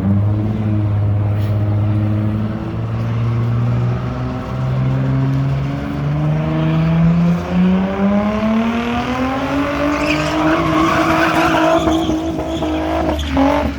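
A car engine climbing steadily in revs for about ten seconds and holding high, with a hissing edge near the top, then dropping off sharply near the end.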